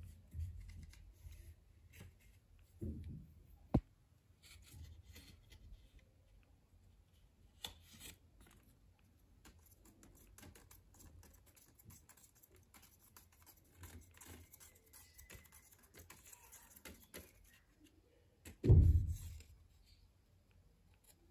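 Light handling noises: scratching, rustling and small clicks, with one sharp click about four seconds in and a dull low thump near the end.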